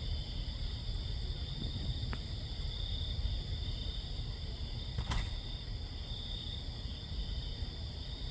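A steady, unbroken high-pitched drone holds one pitch throughout. It is the loud, directionless sound the uploader hears on full-moon nights and cannot identify. Under it is a low rumble, and two sharp clicks come about two and five seconds in.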